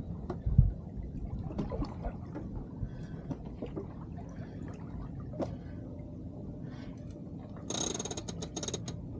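Water gurgling and sloshing against a small sailing yacht's hull, over a low wind rumble, with scattered small knocks. Near the end there is a burst of rapid clicking with a high ringing, lasting just over a second.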